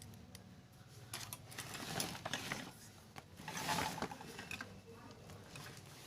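Metal parts of a sewing machine being handled and fitted by hand: irregular clicks, scrapes and rattles, loudest about two seconds in and again near the middle.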